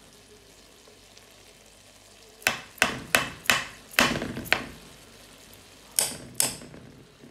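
Roughly eight sharp knocks of a cooking utensil against a cooking pot: six in quick succession about two and a half seconds in, then two more after a short pause.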